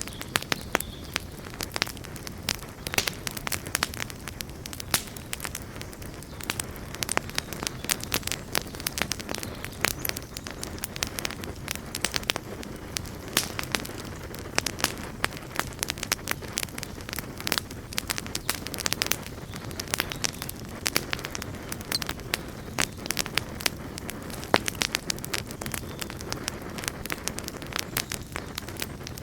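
Campfire burning steadily, with frequent irregular sharp crackles and pops of burning wood over a low steady rumble.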